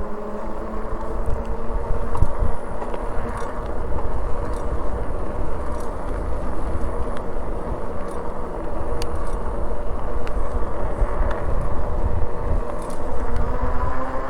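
Wind rushing over the microphone while riding an electric bike, with the steady whine of its electric motor under way; the whine climbs in pitch near the end as the bike speeds up.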